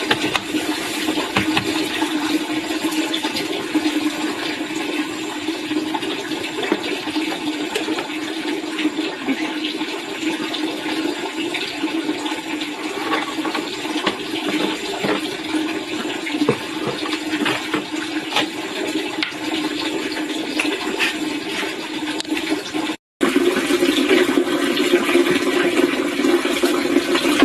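Steady rushing, splashing water, with a brief gap about 23 seconds in where the recording cuts.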